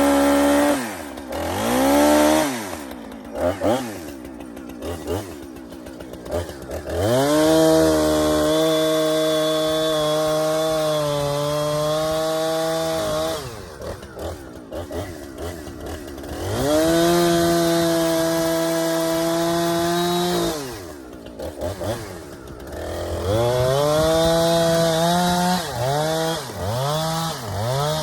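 Chainsaw revved in short blips, then held at full throttle for three long stretches of several seconds each, dropping back toward idle between them.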